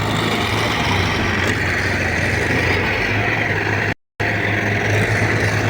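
Heavy diesel engine running steadily under load, with a sudden brief cut to silence about four seconds in.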